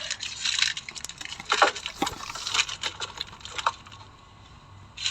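Chocolate packaging being handled, with crackly rustling and clicks of wrappers and boxes, and a sharp knock about two seconds in. It quietens for about a second near the end.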